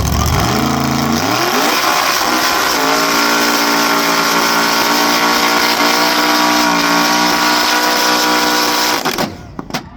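Chevelle's 496 ci big-block V8 revving up over the first few seconds and held at high, steady rpm during a burnout, then cutting off abruptly about nine seconds in, followed by two sharp bangs.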